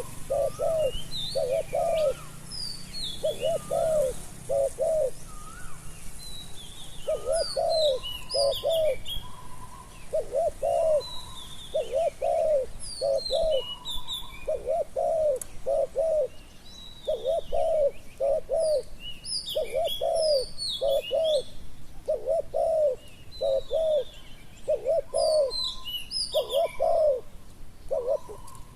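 Spotted doves cooing over and over in short phrases of two or three low notes, about one phrase every second or so, with small birds chirping high above them.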